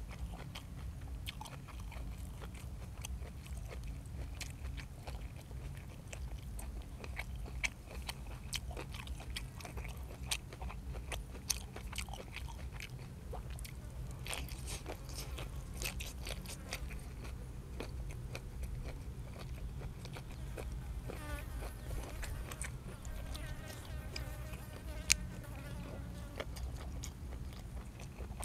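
Close-up eating sounds: a person chewing and crunching through blanched squid and fresh raw vegetables, with many crisp bites and wet mouth sounds, and one sharper crack near the end. A low steady rumble lies underneath.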